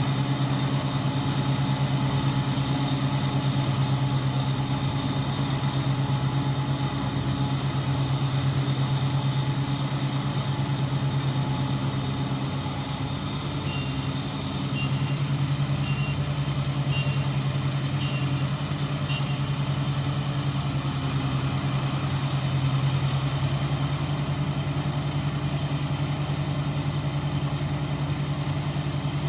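ISEKI 325 rice harvester's engine running steadily at work in the rice field, a constant low drone. About halfway through, a short run of faint high beeps sounds several times.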